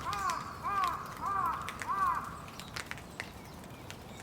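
A crow cawing in a quick series of four harsh calls about two-thirds of a second apart, stopping about two seconds in. Rain falls throughout as a steady hiss with scattered drips ticking.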